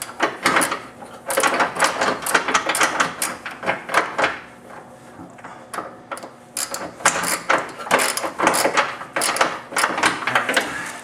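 Hand ratchet and socket clicking in quick runs as a nut is run down onto a subframe bolt, with metal tool clatter; the clicking eases off briefly midway, then picks up again.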